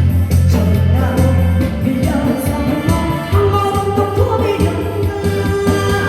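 A woman singing a Korean song live over a loud backing track with a steady bass.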